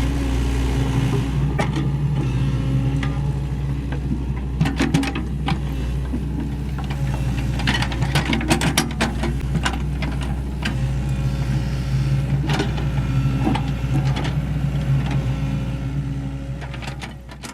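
Sany SY75C excavator's diesel engine running steadily under work, with repeated sharp knocks and clatters, busiest in the middle. The sound fades out near the end.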